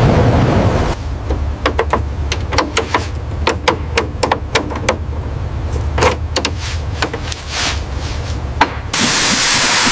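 An uneven run of sharp knocks and taps, some ringing briefly, over a steady low hum. A loud rushing noise cuts off about a second in, and another starts abruptly near the end.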